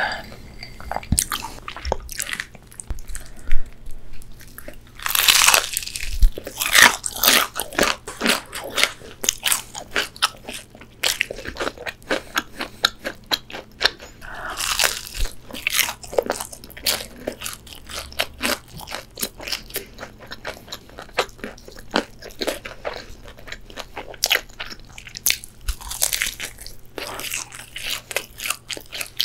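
Biting and chewing KFC Extra Crispy fried chicken: the crisp breading crunches in clusters of bites, with softer chewing between them.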